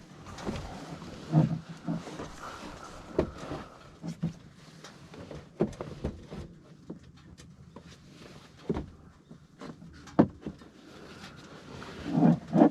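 Irregular rustles and sharp cracks of footsteps and twigs on a forest floor, mixed with short low animal sounds.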